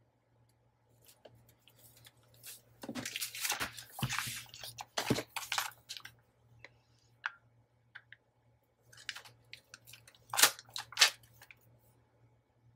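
Craft materials being handled on a work surface: a few seconds of rustling and crinkling, then two sharp clicks about ten seconds in.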